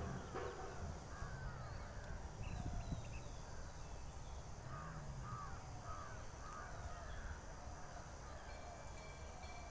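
Birds calling: a run of short, repeated calls, thickest in the middle, over a steady background hiss.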